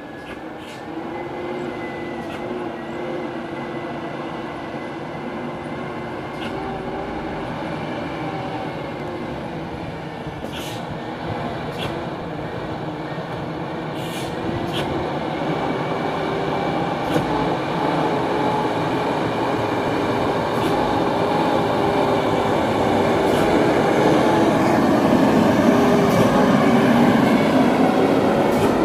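Dump truck diesel engine running as the truck approaches, growing steadily louder, with a few sharp clicks or rattles partway through.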